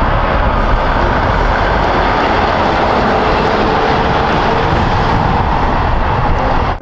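A heavy truck's engine running: a loud, even rumble that cuts off suddenly at the end.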